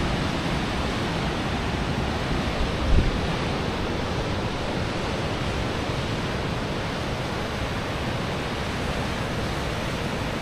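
Steady rushing wind buffeting the microphone, mixed with the surf of the sea below, with one brief low thump about three seconds in.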